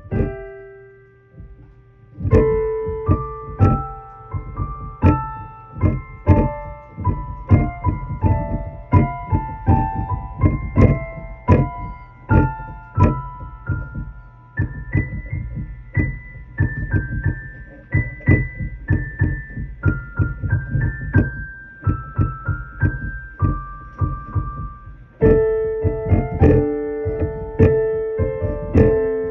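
Electric keyboard played with a piano voice: a run of single notes and chords at a steady pace, with a short pause about a second in and fuller, louder chords near the end.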